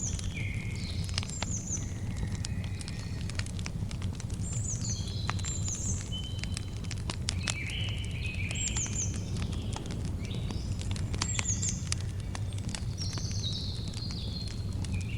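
Campfire crackling with frequent sharp pops over a steady low rumble, while birds sing repeated whistled phrases of quick falling slurs and stepped notes.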